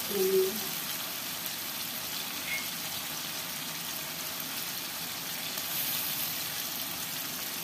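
Blended chili sambal paste with tomato pieces sizzling and simmering in a wok, a steady frying hiss.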